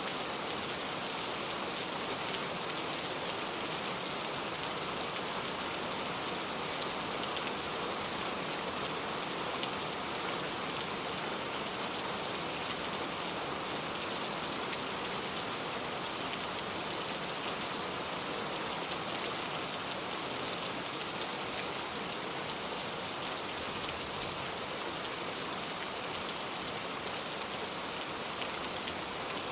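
Heavy rain pouring steadily, a dense, even hiss of many drops striking a surface.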